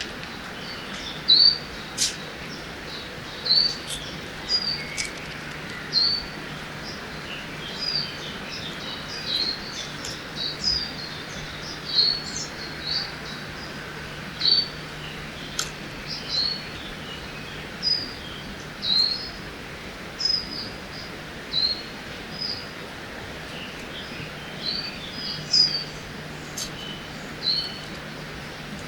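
Forest ambience by a river: birds giving short, high chirps every second or two over a steady rushing hiss of flowing water.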